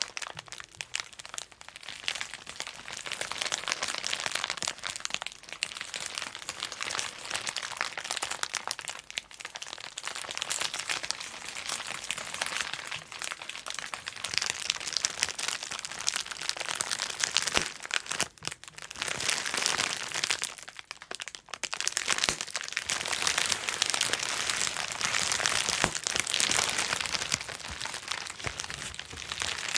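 Bubble wrap being popped and crinkled in a dense, continuous run of small pops and crackling plastic, with short lulls about two-thirds of the way through.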